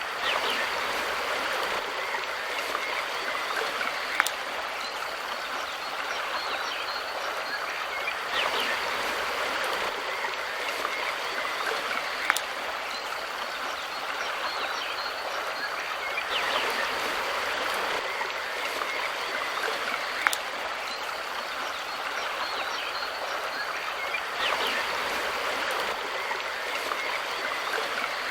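Mountain river flowing steadily, swelling about every eight seconds, with a sharp click about every eight seconds.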